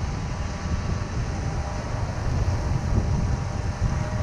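Strong wind buffeting the microphone: a gusty, uneven low rumble.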